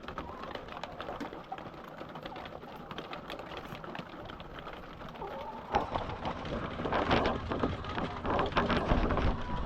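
A flock of laying hens feeding, many beaks tapping rapidly at the feed, with hen clucking. It grows busier and louder in the last few seconds.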